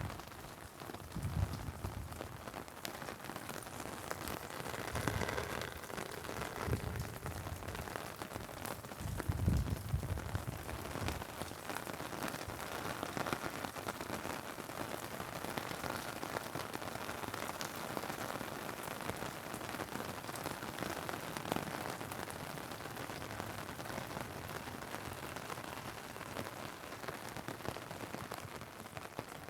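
Steady rain falling, an even hiss of drops, with a few dull low thumps in the first ten seconds.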